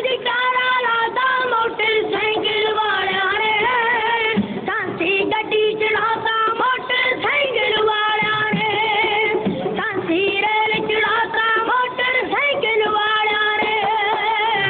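Dhadi-style Punjabi folk singing: a high voice with musical accompaniment, holding long, wavering notes.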